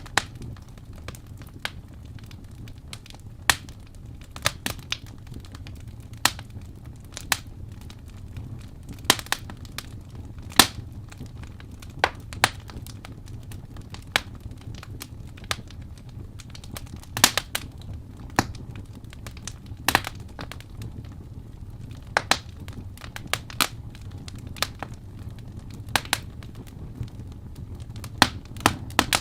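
Wood fire crackling in a fireplace: a steady low rumble of flames with irregular sharp snaps and pops from the burning logs, a few of them much louder.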